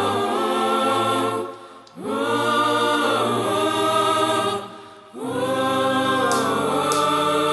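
Music: wordless choir-like voices holding three long chords, each about three seconds, over a low drone, with a short break between phrases.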